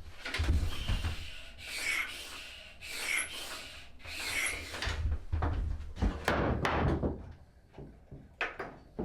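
A hand tool being drawn in strokes across a yew bow stave, shaping the wood, the strokes a little over a second apart before growing fewer and quieter near the end.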